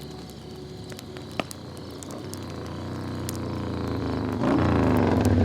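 Harley-Davidson Sportster Forty-Eight V-twin motorcycle engine approaching and growing steadily louder. It gets much louder about four and a half seconds in as it pulls up close.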